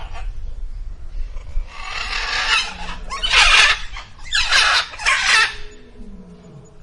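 An animal giving four harsh, screeching calls. The first is the longest, and the next three come in quick succession, the second of them the loudest.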